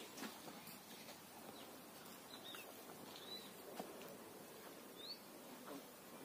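Quiet outdoor background with a few faint, short bird chirps scattered through it, and one soft click a little past the middle.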